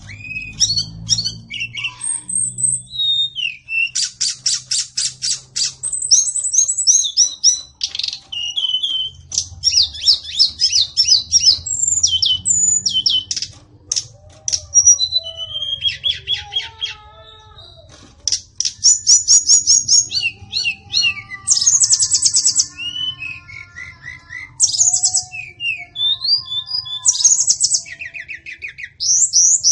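White-rumped shama singing a long, varied song of high whistles and fast rattling trills, with gliding notes and short pauses between phrases.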